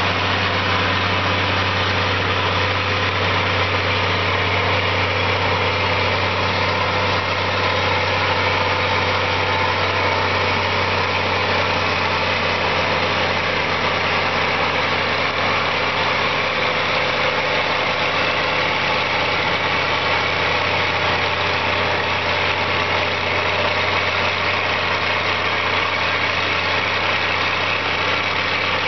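1952 Linn halftrack's engine idling steadily, with no revving.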